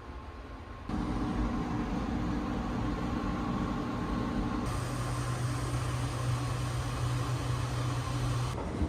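Steady running noise of a train heard from inside the car: a mechanical hum over a rushing noise. It comes in abruptly about a second in, and the hum drops to a lower pitch about halfway through.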